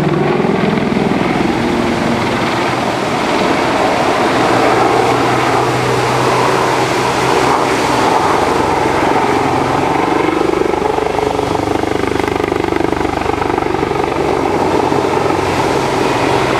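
Helicopter flying a display pass, its rotor and turbine noise loud and continuous, rising and falling slowly in pitch as it moves around.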